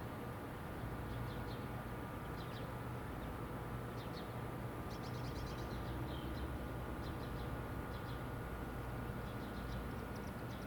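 Short, high bird chirps in quick clusters every second or so, over a steady low rumble.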